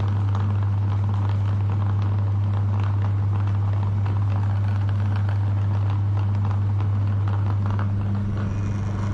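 Electric meat grinder running with a steady low hum, with small crackles and scrapes as it grinds ice cream.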